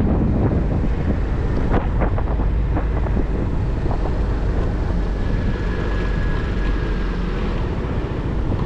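Wind buffeting the microphone on a moving motorcycle, over a steady low rumble of engine and road noise, with a faint high whine for a couple of seconds past the middle.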